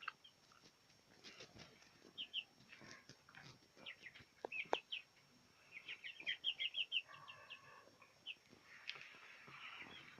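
Young poultry peeping faintly, with short high calls coming in quick runs, busiest past the middle, and a couple of sharp clicks around halfway.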